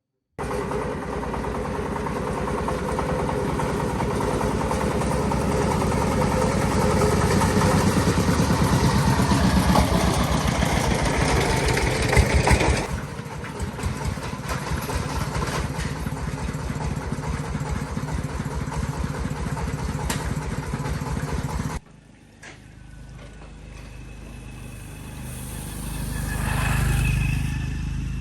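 Tractor engine running with a fast, even chugging, dropping to a quieter, lower run about halfway through and then cutting off suddenly. Near the end another engine sound swells and fades.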